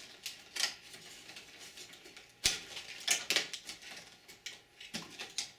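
Ribbon cables being pulled off their connectors inside a 486 desktop PC: scattered clicks and plastic rustling, with one sharp click about two and a half seconds in.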